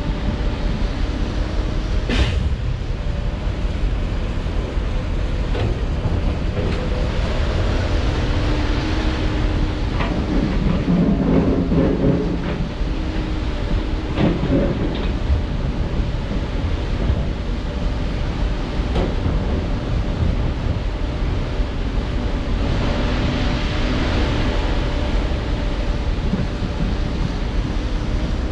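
Diesel engines of heavy earthmoving machinery running steadily, with a sharp knock about two seconds in and a stretch of clanking and clatter in the middle.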